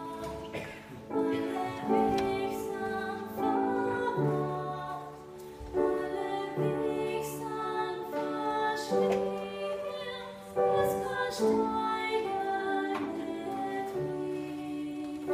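Female voices singing a slow, gentle song in harmony over an instrumental accompaniment with plucked notes.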